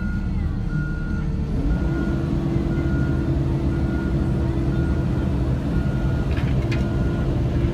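A loader's diesel engine running steadily under a backup alarm beeping about once a second. The engine note steps up a little about two seconds in.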